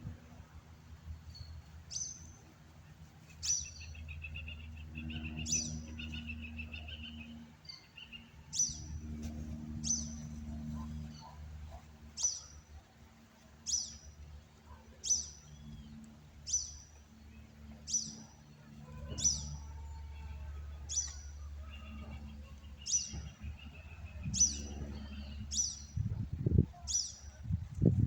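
A bird repeating one short, high, downward-sweeping call about every second and a half, with fainter chirps from other birds. Beneath it runs a steady low rumble, and there are a few low thumps near the end.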